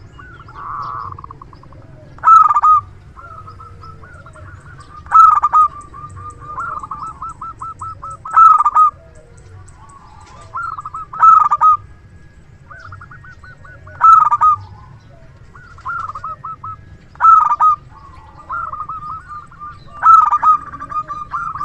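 Zebra dove (perkutut) in full song: a loud burst of rapid, trilled cooing notes about every three seconds, with softer trilled coos in between.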